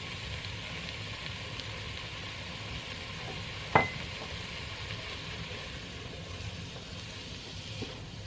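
Spiced food sizzling steadily in a pan, with a single sharp clink a little under four seconds in.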